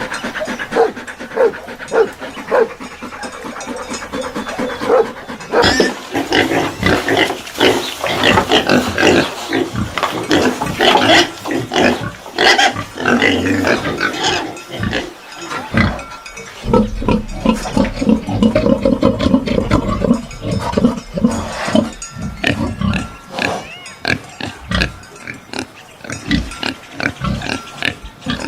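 A group of pigs grunting and squealing, with many short calls overlapping; the calls are busiest and highest in the middle stretch.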